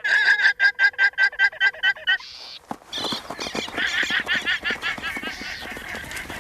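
Guanacos giving alarm calls: a rapid run of shrill, bleating calls for about two seconds, then after a short break a second, longer series. These are the calls a herd gives on spotting a stalking puma.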